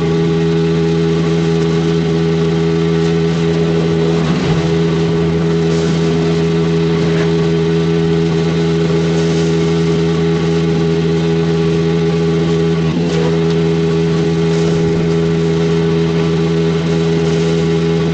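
Pressure washer's gas engine running at a constant speed: an unchanging hum with a steady hiss over it.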